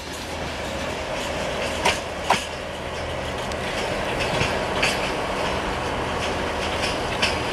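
Passenger train coaches rolling past and away on the rails, a steady rumble of wheels on track with a few sharp clacks as the wheels cross rail joints.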